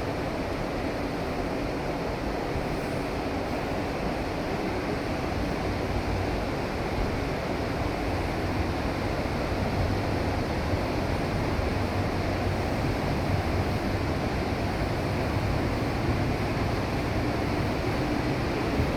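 Amtrak passenger train running, heard from inside the car: a steady rumble and rushing noise that grows slightly louder about halfway through.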